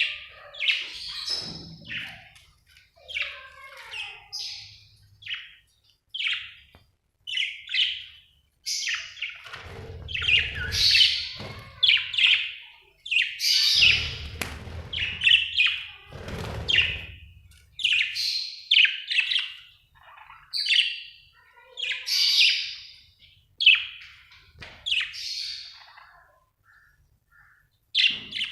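Budgerigar chirping and warbling in quick, irregular bursts of high chirps and squawks. A low rumble sits under the calls a few times.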